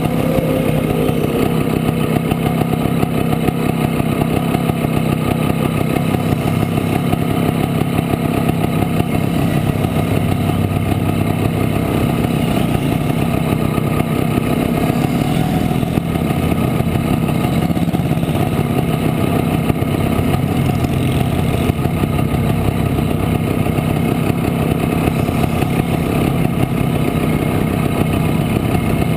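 Montesa Impala Comando 175 two-stroke single-cylinder engine running steadily at an even speed while riding.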